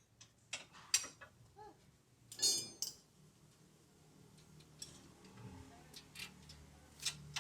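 Metal tools and parts clinking and clicking during suspension work under a van, a few sharp clicks with one ringing clank about two and a half seconds in.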